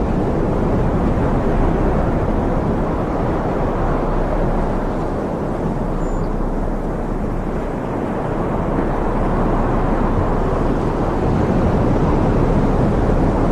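Loud, steady roar of rushing flood water: a continuous deep rush with no breaks.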